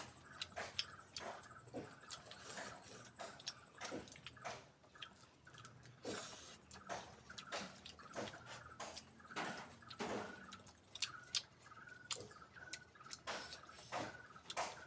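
Close-up wet eating sounds of a person chewing pork feet: irregular smacking and squishing clicks, several a second.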